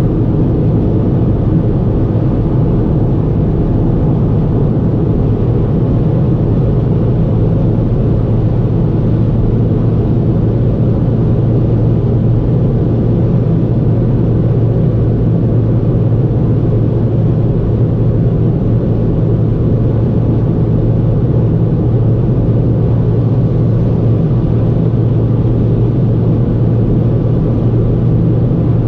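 A 2009 Ford Fiesta 1.4 with a four-cylinder petrol engine and automatic gearbox, driving at a steady speed. The engine drone and road noise are low and even, with no change in pitch.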